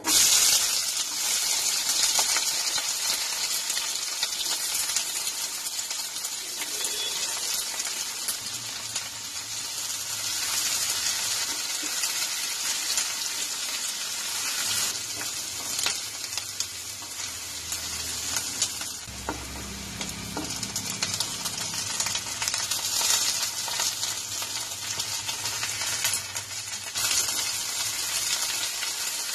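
Sliced onions hitting hot oil in a kadai with a sudden loud sizzle, then frying steadily as a spatula stirs them, with occasional light knocks against the pan.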